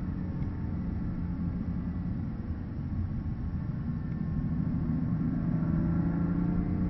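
BMW M car's engine heard from inside the cabin over tyre and road rumble, easing off as the car slows for a corner, then pulling harder with a rising note from about five seconds in as it accelerates out.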